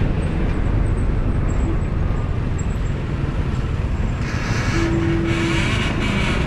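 Steady low vehicle rumble, with a short steady tone a little under five seconds in.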